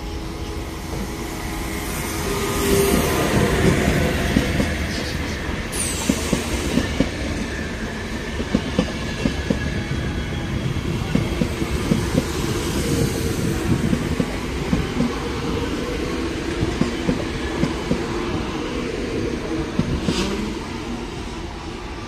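Electric-locomotive-hauled passenger train passing close by. The locomotive's pass swells in the first few seconds, then the coaches' wheels clack over rail joints in a rapid uneven rhythm, with a brief high squeal about six seconds in. The noise drops as the last coach goes by near the end.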